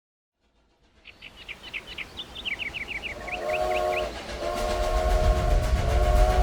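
Train sound effect: a steam-train whistle sounding a chord in three blasts, the last one held, over a growing rumble and the rhythmic clatter of wheels. It starts about a second in with a quick run of short chirps.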